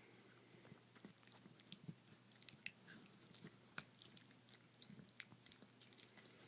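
Chihuahua gnawing on a bone: faint, irregular clicks and crunches of teeth on bone.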